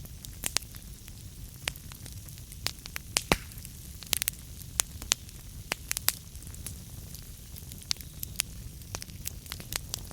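Wood fire burning in a fireplace: a low steady rumble of flames with irregular sharp crackles and pops from the burning logs, several of them loud.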